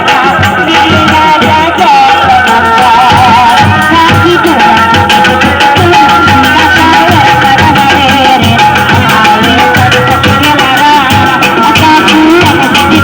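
Loud kuda lumping ensemble music: fast, continuous drumming with a wavering, ornamented melody line over it.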